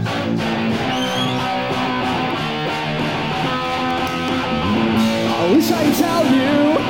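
Live punk rock band playing an instrumental passage, electric guitar strumming held chords, with sliding notes from about five seconds in.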